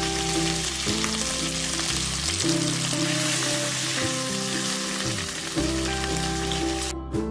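Chicken livers sizzling as they fry in a pan, with steady background music underneath; the sizzle cuts off suddenly near the end, leaving the music.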